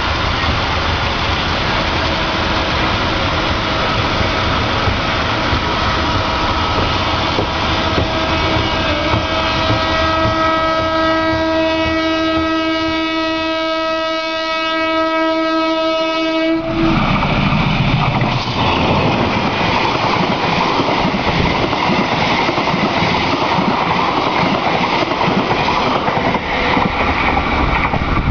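Passenger train running through a station, with steady rumbling and rail clatter. A locomotive horn sounds one long steady blast that grows louder over several seconds and cuts off sharply a little past halfway, after which the rumble of the moving train gets louder.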